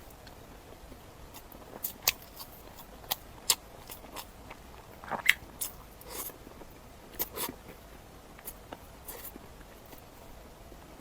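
Close-miked eating sounds: irregular bites and chewing, heard as a scattered series of sharp clicks starting about two seconds in.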